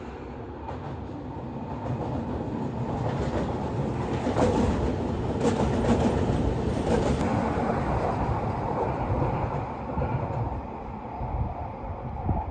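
Electric commuter train passing on the line where the subway comes above ground: a steady rumble swells, peaks in the middle with a few sharp wheel clicks over rail joints, then fades away.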